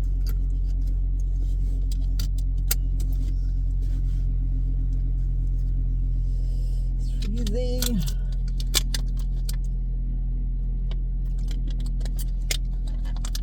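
Steady low rumble of a car running, heard inside the cabin, with scattered light clicks and jingles like dangling keys, and a brief voice sound about seven seconds in.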